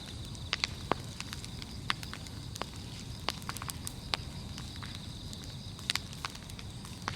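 Large wood bonfire crackling, with sharp irregular pops from the burning firewood over a low steady rumble of the flames.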